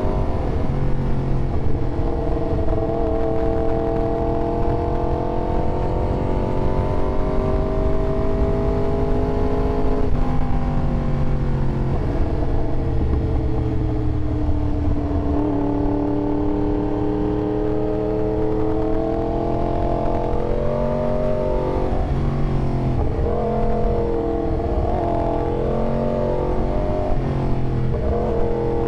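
Yamaha R1 inline-four engine running under way, its pitch climbing slowly for about ten seconds, dropping sharply at a gear change, climbing again, then rising and falling in quick swells near the end.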